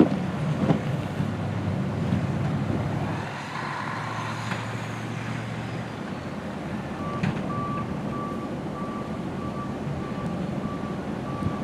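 A vehicle engine running amid wind noise; about seven seconds in, a reversing alarm starts, beeping steadily about twice a second.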